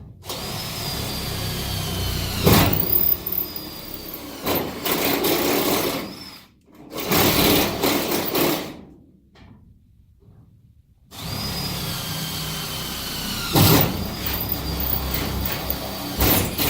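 Cordless power drill boring holes: the motor runs in two long spells with a high whine that sags in pitch as the bit bites, each with a sharp knock, and a shorter burst of drilling between them.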